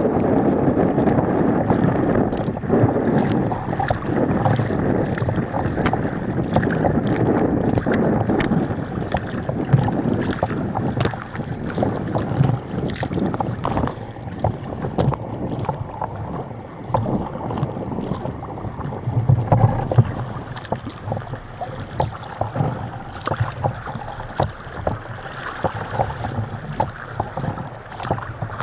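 Sea kayak paddling through choppy water: water splashing and slapping against the hull and paddle, with wind on the microphone. It is louder in the first half and eases off later.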